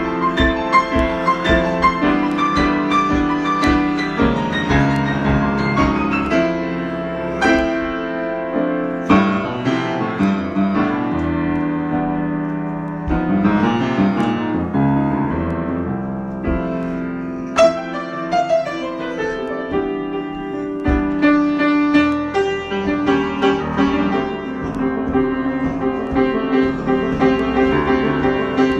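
Solo piano improvisation: notes and chords played continuously, with struck onsets and ringing sustain.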